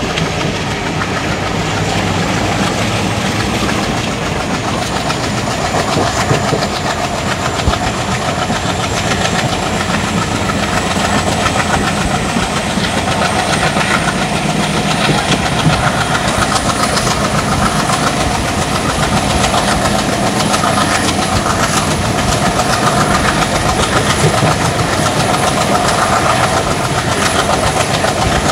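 ICF passenger coach running at speed on the track, heard from on board: steady rumble and rattle with the clickety-clack of wheels over rail joints.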